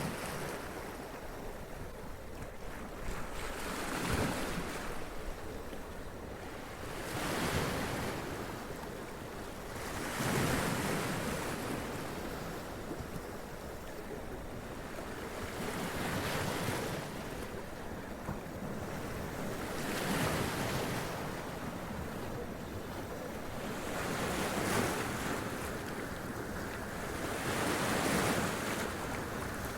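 Sea waves running up onto rocks and splashing, a steady wash that swells and falls back about every three to four seconds.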